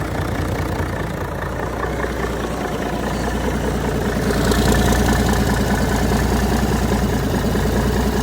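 Mack E6 mechanical inline six-cylinder diesel engine running steadily with an even low beat, getting louder about halfway through.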